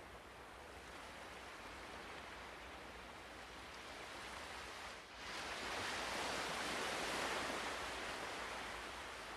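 Ocean waves: a steady wash of surf, with a louder wave building about five seconds in and slowly falling away.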